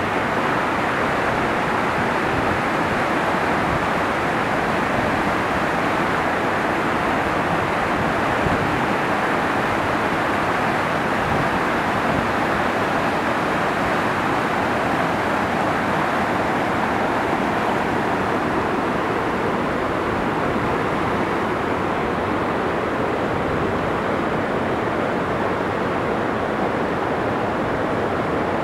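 Lower fall of the Krimml Waterfalls: a loud, steady rush of falling water, unbroken throughout.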